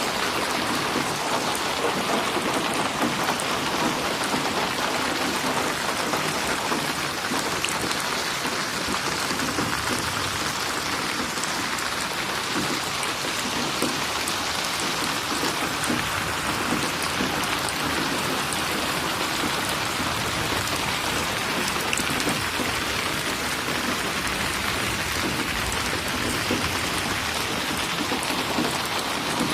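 Steady rain falling on a hard surface: a constant, even hiss of drops with scattered individual drop ticks.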